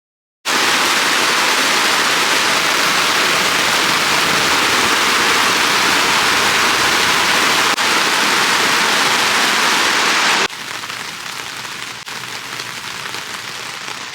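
Heavy rain pouring, a loud, even hiss that starts abruptly after a moment of silence; about ten seconds in it cuts to a quieter, lighter rain.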